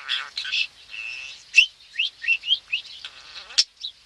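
Pet budgerigar chattering: a continuous warble of short chirps, with several quick rising chirps in the middle and a sharp, high chirp near the end.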